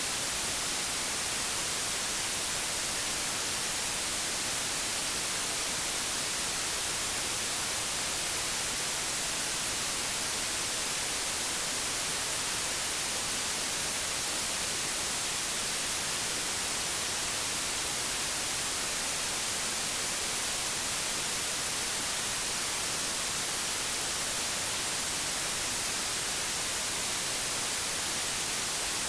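Analogue television static: a steady, even hiss, brightest in the treble, with no change or break.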